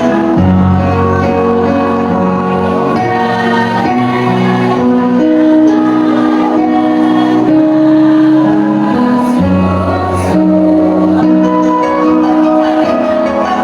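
Choir singing in chords, long held notes over a bass line that moves every second or two.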